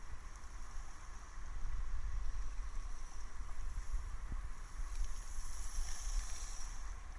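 Wind buffeting the microphone as a fluctuating low rumble, with a thin high hiss that grows louder about five seconds in.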